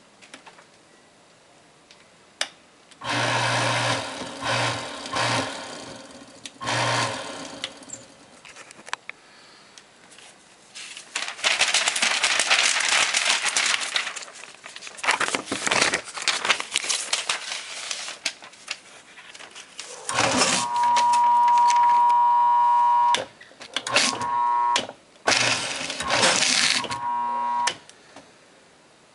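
Prime 2600 paper shredder's motor starting and stopping in several short bursts, a steady hum each time, with a stretch of dense crackling noise in the middle.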